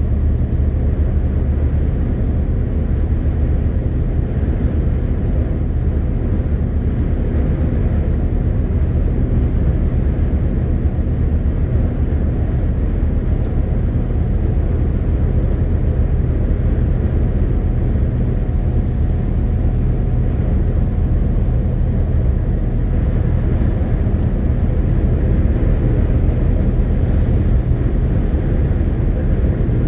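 MAN TGX 18.520 truck's inline-six diesel and tyres on the road, a steady low drone while the truck is under way at cruising pace. It gets slightly louder a little past the middle.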